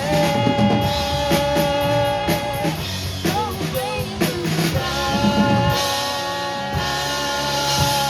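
A rock band playing with a drum kit and singing, with long held notes over steady drum hits. The music drops off sharply right at the end.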